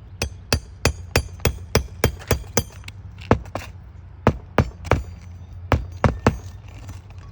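Hammer blows nailing down a replacement asphalt shingle, with a nail set in a nail-driving tool slipped under the shingle above. There are about seventeen sharp strikes in all, each with a slight ring: a quick run of about nine, roughly three a second, then a few shorter groups of two or three.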